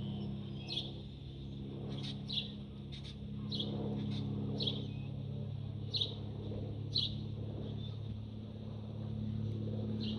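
A bird chirping repeatedly in short, sharp chirps about once a second, over a steady low hum.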